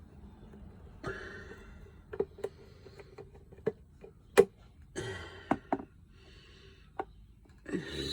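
Paint bottles and cups being handled: a series of sharp taps and knocks, the loudest about four and a half seconds in, between a few short scraping, rustling sounds.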